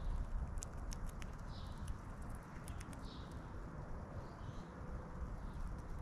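Small birds at a feeder close to the microphone, pecking and hopping: irregular sharp taps and clicks, with a few short soft calls, over a steady low rumble.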